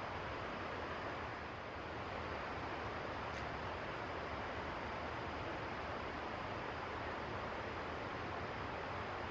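Steady rushing of river water, unchanging throughout, with one faint tick about three and a half seconds in.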